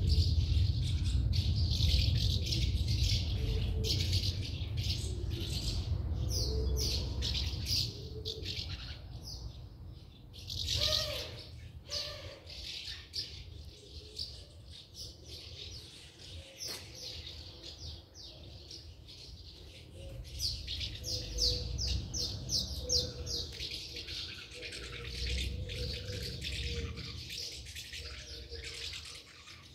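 Small birds chirping in quick runs of short, high notes, with a low rumble in the first several seconds.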